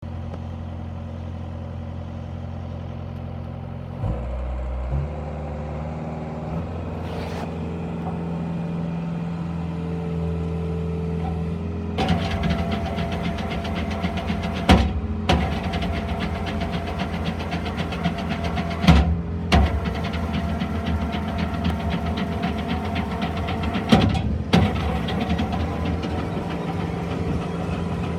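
Skid steer loader engine idling, then speeding up about five seconds in. From about twelve seconds a sweeper attachment's rotating broom adds a steady brushing rattle over the engine, with a few sharp knocks.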